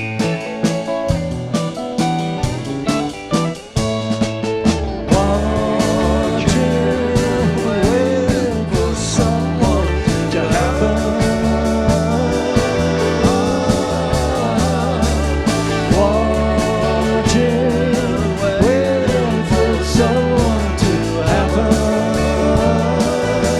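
Live rock band playing a song, with guitars, bass and drums, and a wavering melodic line above. The playing is sparser at first, and the full band comes in about five seconds in.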